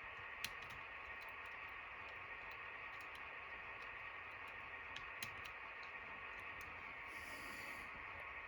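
Faint steady hum with scattered light clicks; two clicks a little louder, about half a second in and about five seconds in, and a brief soft hiss near the end.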